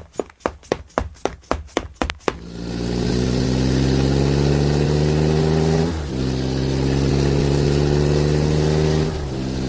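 About nine sharp clicks, roughly four a second, then a motor engine running steadily with its pitch slowly rising, dipping briefly about six seconds in.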